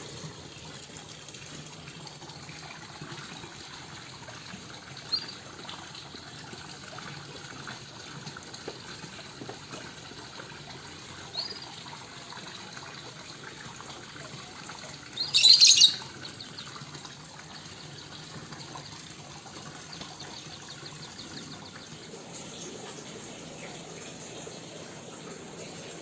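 Pet songbirds chirping now and then: two faint short chirps, then one loud, high burst of chirping lasting about a second near the middle, over a steady background hiss.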